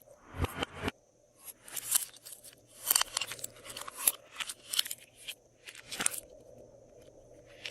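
Slime being squeezed and worked by hand, crackling and popping in short bursts about once a second.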